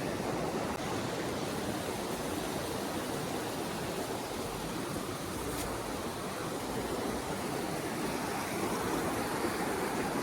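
Steady rushing water, an even continuous noise without a break.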